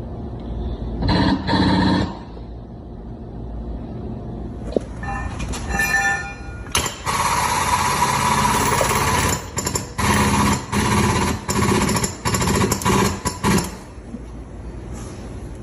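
A power tool in a body shop running in a string of short on-off bursts, each under a second, for about seven seconds, after a brief steady whine.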